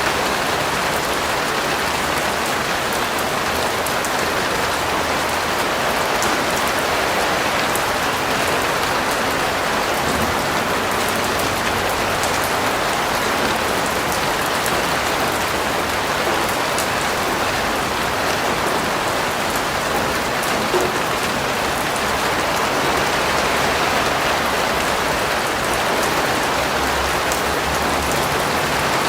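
Steady rain falling on a surface, a constant hiss with fine drop patter and one brief louder tick about three quarters of the way through.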